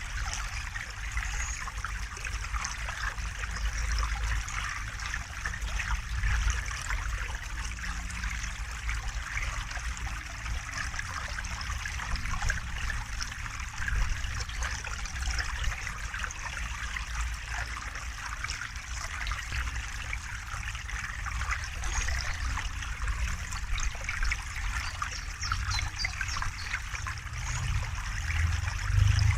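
River water flowing steadily, a continuous rush and trickle with a low rumble underneath.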